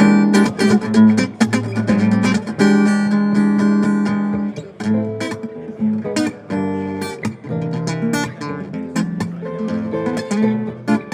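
Acoustic guitar being strummed in chords, louder for the first four seconds or so, then played more softly.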